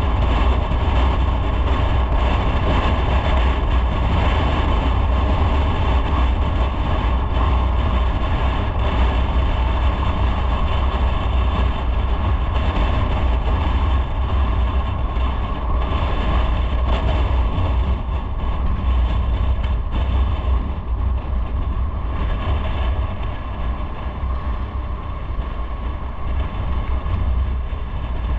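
Motorcycle running on the road, a steady low engine rumble under rushing wind and road noise, easing off a little about two-thirds of the way through.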